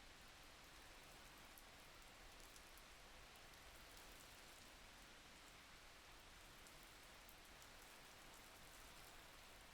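Faint, steady rainfall: an even hiss with light, scattered drop ticks.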